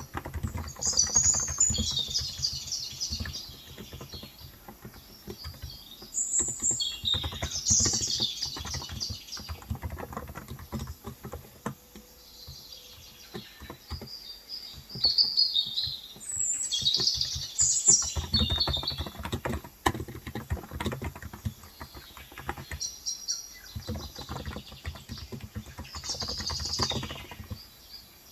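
Typing on a Cox Endeavor electrostatic capacitive keyboard with 35 g switches, keys clicking in bursts of a few seconds with pauses between. Birds chirp outside in repeated bouts of high twittering.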